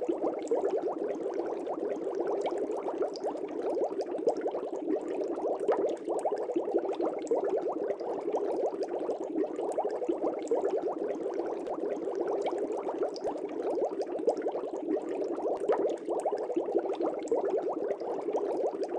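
Fish tank air bubbles bubbling steadily underwater and at the surface, a dense continuous gurgle made up of many small pops.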